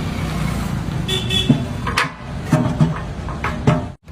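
Busy street noise: steady traffic rumble with a brief horn toot and several sharp knocks.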